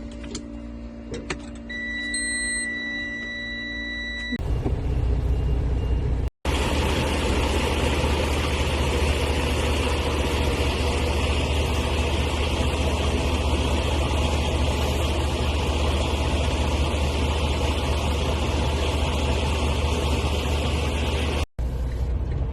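Tractor-trailer truck with a quiet idling hum, a few clicks and a short electronic beep, then a loud steady low engine drone with road noise that starts about four seconds in and breaks off abruptly twice.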